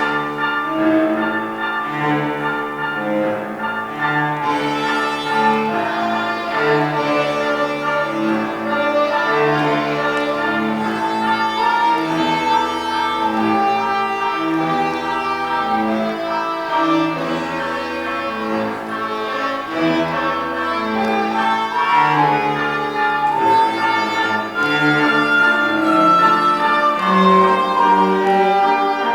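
Cello and violin playing a waltz live, a flowing melody over a bowed bass line.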